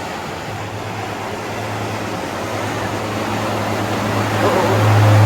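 A boat's engine running as it passes through the inlet, a steady low hum that grows steadily louder as the boat approaches and is loudest near the end.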